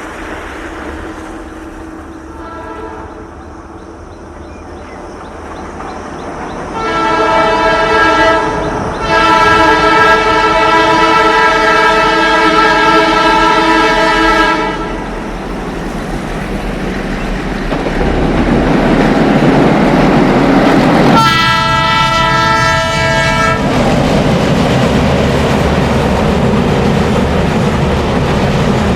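Metre-gauge train's locomotive horn: a faint blast, then a short blast and a long blast of about five seconds as the train nears, and another blast of about two seconds later on. Under the horn the rumble and clickety-clack of the train running past grows louder and holds to the end.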